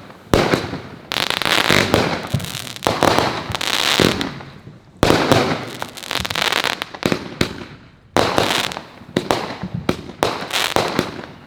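Fireworks going off in quick succession: a series of sharp bangs, each trailing into a second or more of dense noise before the next one.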